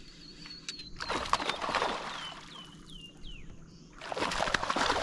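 A bird calling outdoors: a falling whistle near the start, then four short falling chirps in quick succession in the middle. Two spells of crackly hiss, about a second in and near the end, are the loudest sounds.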